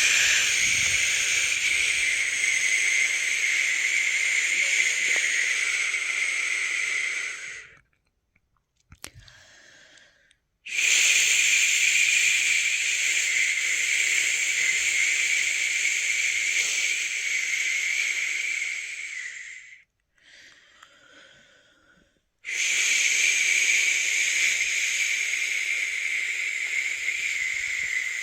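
A person shushing 'shhh' in long drawn-out breaths, three of about eight or nine seconds each with pauses of about three seconds between. It is the steady shush used as white noise to soothe a newborn to sleep.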